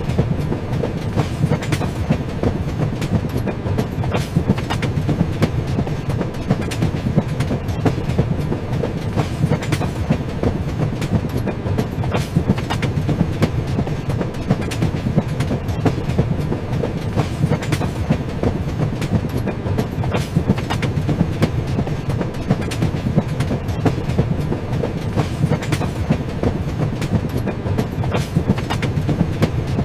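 Train running on its rails: a steady low rumble with frequent sharp clicks and knocks from the wheels on the track.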